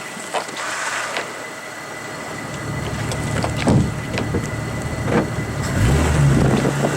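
A vehicle engine running, which comes in about halfway through and grows louder toward the end, over a steady hiss, with a few sharp knocks.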